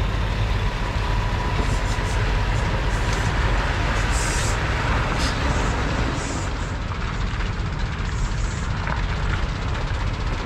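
Semi truck running, a steady low rumble of engine and road noise with a few brief hisses.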